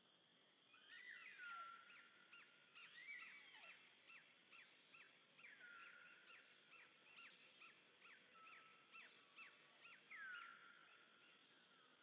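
Faint animal calling: a run of short, high repeated calls at roughly two to three a second, broken by a few longer calls that slide down in pitch, starting about a second in and fading out near the end.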